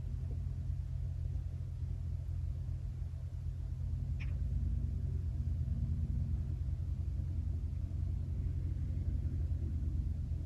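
Outdoor lakeside ambience dominated by a steady low rumble, with one short high chirp about four seconds in.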